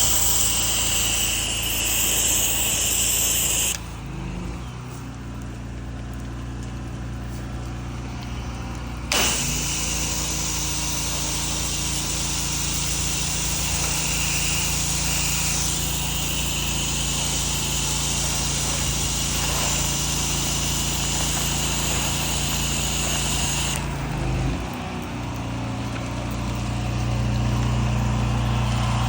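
A pressure-washing rig's engine running steadily while a spray hisses on and off: the spray stops about four seconds in, starts again with a click about nine seconds in, and stops again near the end while the engine keeps running.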